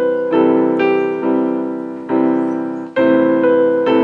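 Electronic keyboard with a piano sound playing full root-third-fifth chords, about five struck in a row, each ringing and fading before the next. Played low on the keyboard, the chords begin to sound heavy and muddy.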